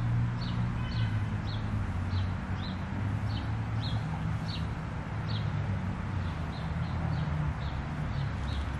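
A bird chirping again and again, about two short high chirps a second, over a steady low rumble.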